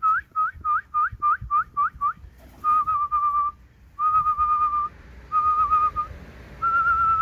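A person whistling: a quick run of short rising whistle notes, about four a second, then four longer, wavering whistles of nearly a second each.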